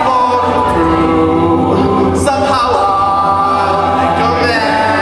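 A cappella vocal group singing, several voices in close harmony holding sustained chords.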